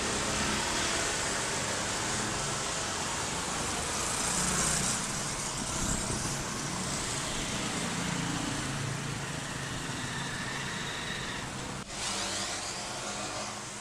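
Motor vehicle engine running amid road and traffic noise, its pitch wavering; the sound breaks off abruptly and resumes about twelve seconds in.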